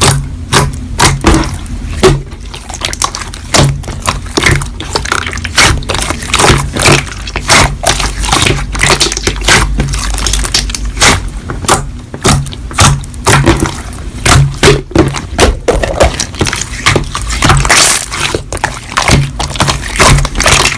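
Slime being squeezed and pressed by hand, giving a dense, continuous run of wet clicks and crackles.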